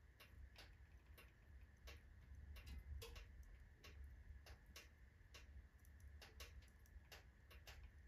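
Wood fire of alder and oak logs crackling in a fireplace stove: faint, irregular sharp pops and snaps, a few a second, over a low steady rumble.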